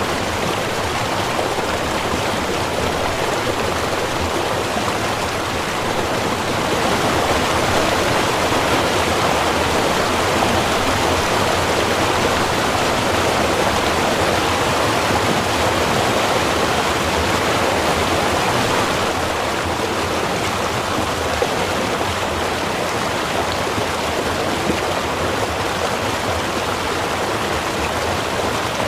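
Small river or stream running: a steady rush of flowing water, slightly louder for a stretch in the middle.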